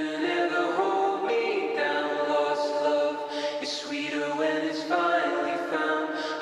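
Background music: voices singing long, held chords that change every second or so, like an a cappella choir.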